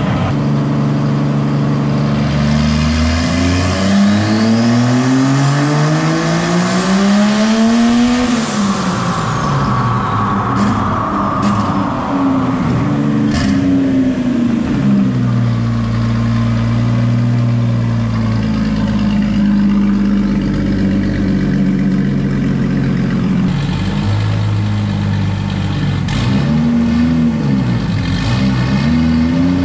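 Turbocharged Jeep Cherokee XJ engine making a pull on a chassis dyno. The revs climb steadily for about six seconds with a rising turbo whistle, then drop off sharply, and a few sharp pops follow as it slows. It then settles into a steady idle, with a short rev near the end.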